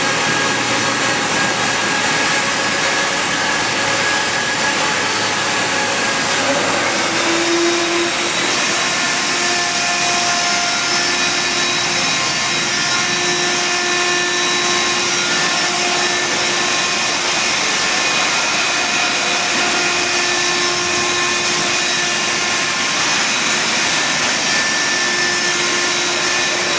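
Plasma cutting arc running steadily on a CNC cutting machine: a loud, even hiss with a few faint steady whistling tones that come and go.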